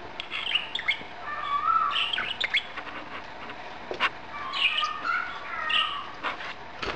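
Pet budgerigars chattering and warbling: a flock of budgies giving quick chirps and twittering calls, with a few sharp clicks mixed in.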